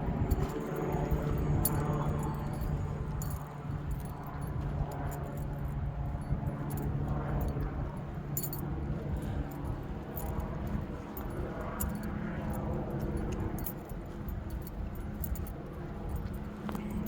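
Small metal pieces jingling and clinking irregularly, with a steady low hum underneath.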